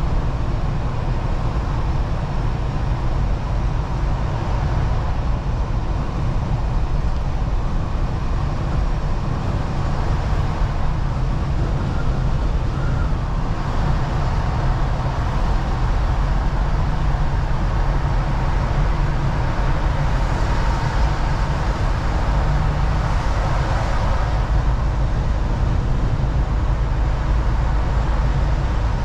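Steady low rumble of a semi-truck's engine and road noise heard from inside the cab while driving.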